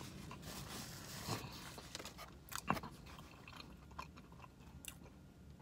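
A person chewing a mouthful of BBQ chicken pizza, faint, with a few soft mouth clicks.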